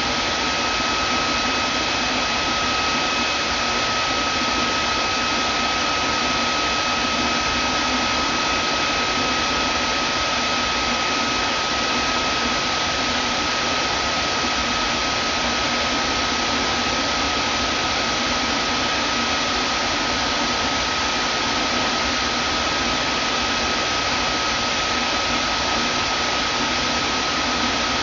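Vacuum cleaner motor running steadily, a constant rush of air with a high whine held on one pitch.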